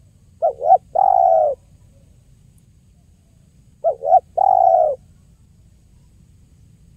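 Spotted dove (tekukur) cooing: two identical phrases about three and a half seconds apart, each two short quick notes followed by one longer coo.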